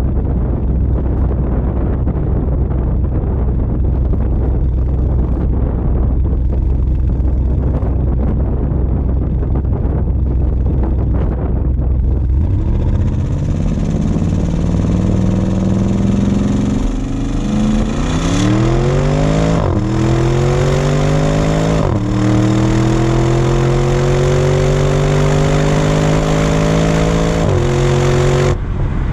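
2020 Audi RS Q8's twin-turbo V8 through an exhaust with all three resonators deleted. A low rumble for about the first twelve seconds, then the exhaust note climbs in pitch under acceleration, dropping back at each of four upshifts.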